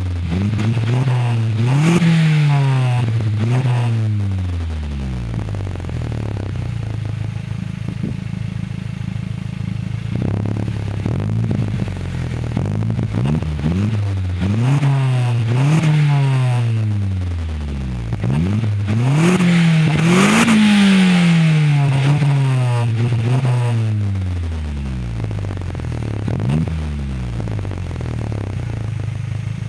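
Exhaust of an Opel Astra 2.0 turbo four-cylinder (Z20LET) through a 2.5-inch system with a sport rear muffler, revved over and over: each time the pitch climbs quickly and then sinks back to a steady idle.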